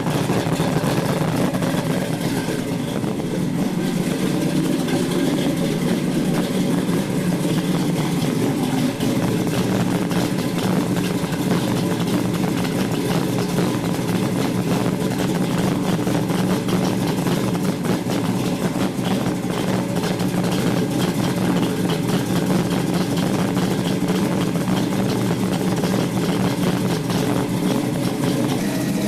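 1971 Chevrolet Nova SS's big-block Chevrolet V8 idling steadily while warming up after a cold start; the idle shifts slightly over the first several seconds, then settles.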